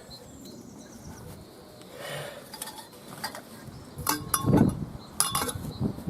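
Knocks and clinks of dismantled Kayacat frame parts being handled and laid into a storage bag. A few light clicks come first, then louder knocks and clinks with a dull thud about two-thirds of the way in.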